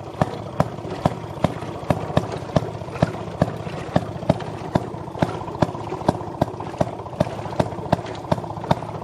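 Gas-engine-powered Maytag wringer washing machine running, a steady mechanical hum with a regular knock about two and a half times a second.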